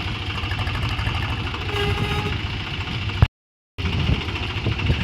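Tractor diesel engine running steadily at low revs. About three seconds in the sound cuts off completely for about half a second after a sharp click, then the engine is heard again.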